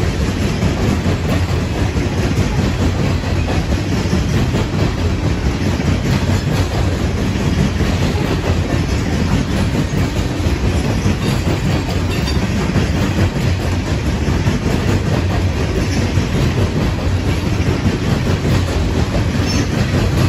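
Loaded coal hopper cars of a freight train rolling steadily past, their steel wheels running on the rails with an even, continuous noise.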